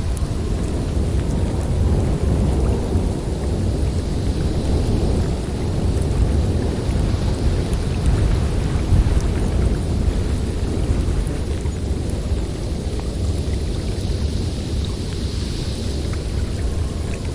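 Blizzard wind blowing hard and steadily, a deep rumble with a higher hiss that swells and fades in gusts.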